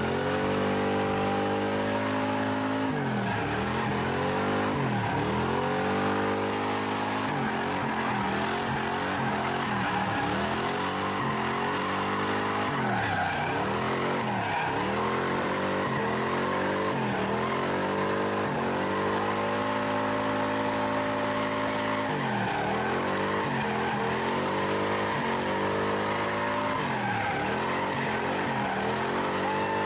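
A car being driven hard and drifted: the engine revs climb and drop again every second or two, sometimes held high for a moment, over a steady hiss of the tyres skidding.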